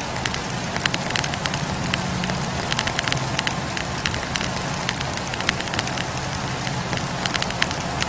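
Wood fire crackling, with frequent small irregular pops and snaps of burning logs over a steady low rush of the flames.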